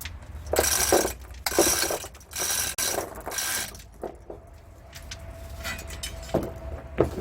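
Mechanical work on a truck differential: four short bursts of rasping, ratchet-like clicking in the first few seconds, then two sharp metallic knocks near the end.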